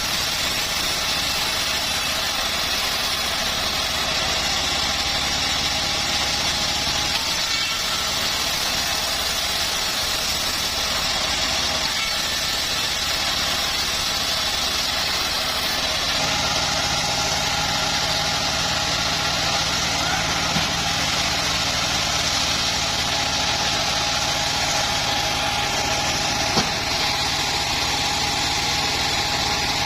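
Homemade bandsaw mill running steadily under its engine, with a shift in tone about halfway through.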